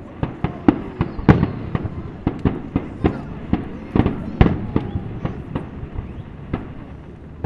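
Fireworks going off in a rapid, irregular series of sharp bangs, several a second and overlapping, some louder than others.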